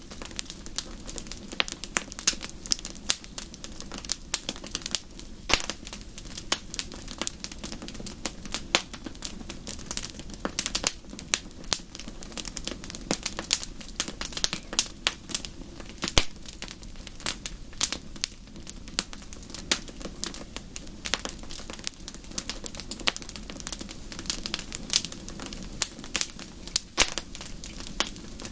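Wood fire burning in a fireplace: dense, irregular crackling and sharp pops over a steady low rush of flame.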